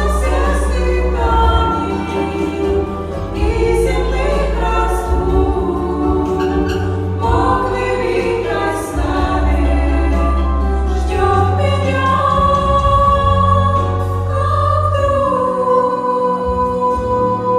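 Female vocal trio singing a song in harmony over an instrumental accompaniment with a sustained bass, ending on a long held note.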